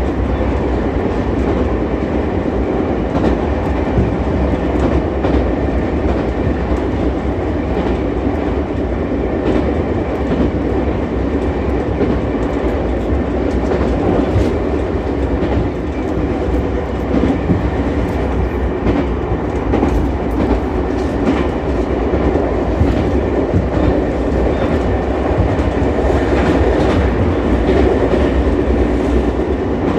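Ichibata Electric Railway 7000 series electric railcar running along the line, a steady running rumble with the wheels clicking over rail joints now and then.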